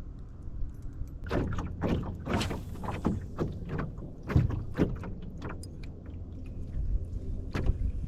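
Wind rumbling on the microphone, with a run of irregular knocks and clatters from gear being handled in a canoe between about one and five seconds in, and one more near the end.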